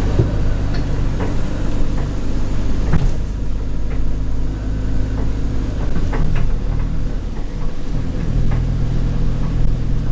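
Alexander Dennis Enviro200 diesel bus heard on board: the engine runs with a low, steady note that drops off about three seconds in and picks up again near eight seconds, while the body and interior give sharp rattles and clicks.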